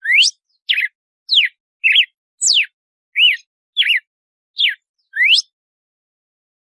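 Red-cowled cardinal (galo-de-campina) singing its 'açoite' song: a brisk series of about nine short, clear whistled notes, some sliding down and some sliding up, stopping about five and a half seconds in.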